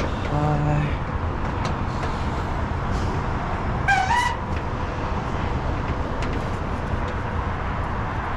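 Steady outdoor traffic rumble with a few light clicks. A short, low horn-like tone sounds just after the start, and a brief wavering tone rises in pitch about four seconds in.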